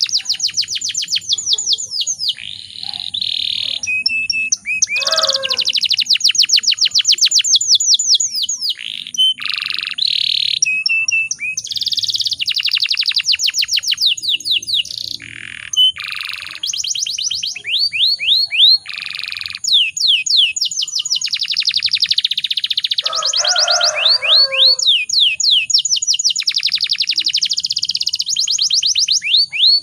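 Domestic canary singing a long, near-continuous song of fast rolling trills: runs of rapidly repeated sweeping notes, changing phrase every second or two, with a few brief pauses.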